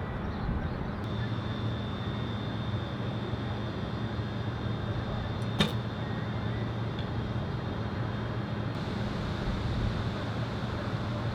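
Steady wind noise on the microphone with a low hum, and a single sharp snap about halfway through: a recurve bow with a Hoyt Epic riser being shot.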